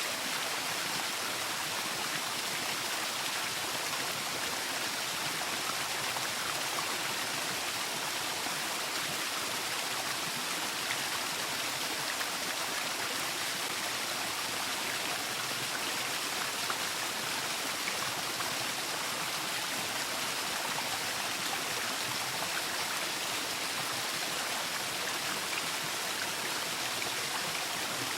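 Waterfall: water falling and splashing in a steady, even rush, with the hiss strongest in the high range and no single splashes standing out.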